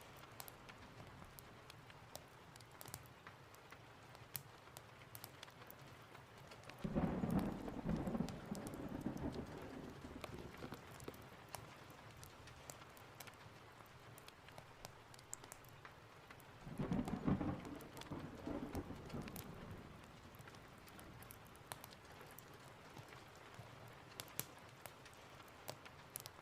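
Steady rain with two rolls of thunder, each swelling up for a few seconds, the first about a quarter of the way in and the second about two-thirds of the way in. Sharp crackles of a fireplace are scattered throughout.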